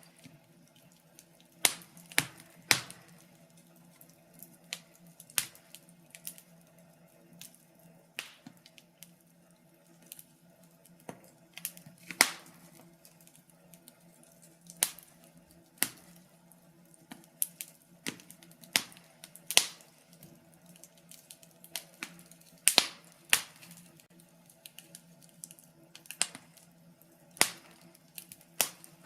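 Wood fire crackling in a fireplace: irregular sharp pops and snaps of burning logs, one to several a second, some much louder than others, over a faint steady low hum.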